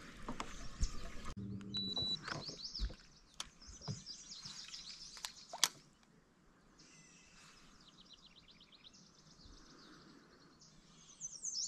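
Faint songbirds singing: quick high chirps and short trills. A few sharp knocks sound in the first half.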